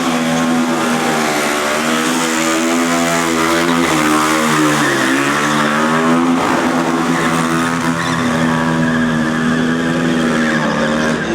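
Racing motorcycle engine held at high revs, easing off briefly about five seconds in and picking up again, then running steadily on.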